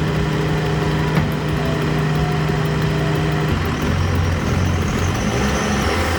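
Heavy vehicle engine running steadily, its note dropping to a lower pitch about three and a half seconds in.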